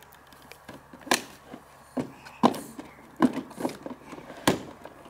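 Half a dozen irregular hollow knocks and clunks from a plastic ride-on toy car's body and door as a child climbs into it.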